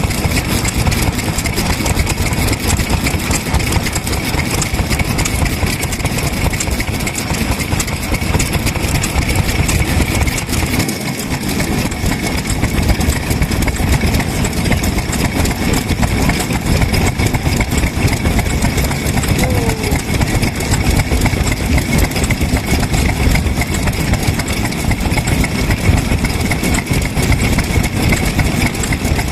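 Vintage kerosene-fuelled stationary farm engine running steadily, with a loud, dense mechanical chugging that dips briefly partway through.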